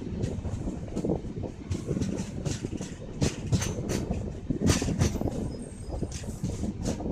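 Passenger train running, heard from on board: a steady low rumble of wheels on rail with irregular sharp clicks and knocks as the wheels pass over rail joints.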